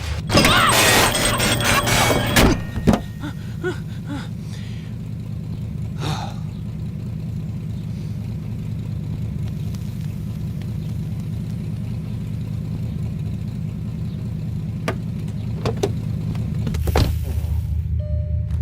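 Cartoon car's engine running with a steady low hum, after a loud burst of clattering mechanical sounds in the first couple of seconds. A few single knocks follow, the engine hum grows louder near the end, and short repeated beeps come in just before it ends.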